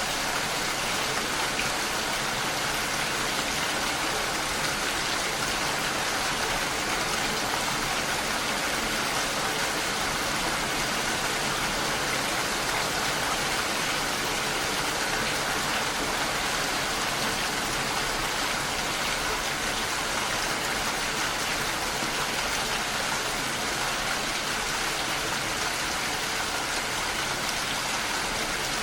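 Steady rainfall: an even, continuous hiss of rain falling.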